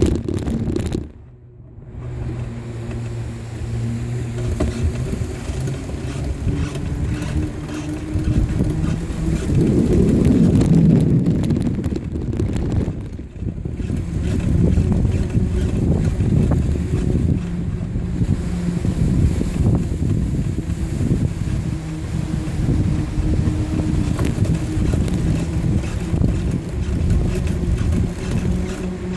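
Steady rumble of wind and riding noise on the camera microphone during a bicycle ride, with the sound dipping briefly about a second in and again around thirteen seconds.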